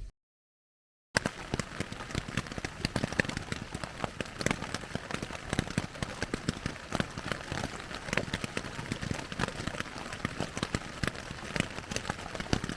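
Steady rain: a dense run of many separate drops striking a surface, starting about a second in after a short dead-silent gap.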